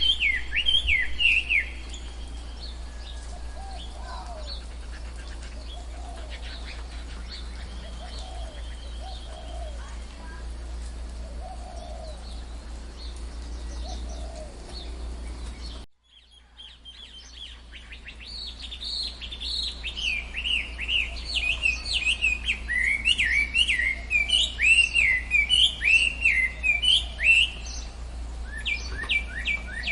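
Tropical forest birdsong: birds sing quick, repeated falling chirps, with softer, lower calls every second or two in between. About halfway through the sound drops out for a moment, as at a splice in the recording. After that a dense stretch of loud chirping builds up. A low steady hum lies under the first half.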